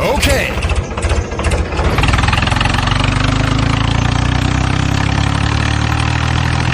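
Tractor engine running: a fast, rough chugging for about two seconds, then it settles into a steady idle.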